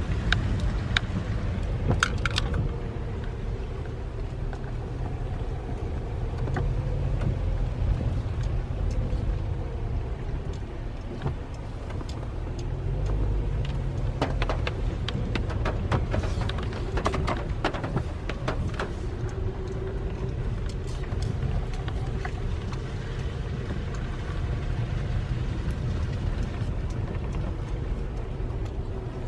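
A car driving: steady low engine and road rumble with a faint hum, and scattered light clicks and rattles, clustered about halfway through.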